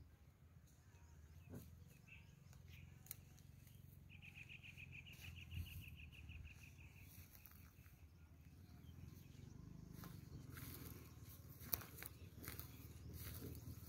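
Faint outdoor quiet with a low rumble. Partway through, a bird gives a rapid trill lasting about three seconds. Near the end, footsteps crunch through dry grass.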